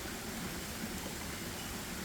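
Steady, even rush of running water, with a faint short high peep about one and a half seconds in.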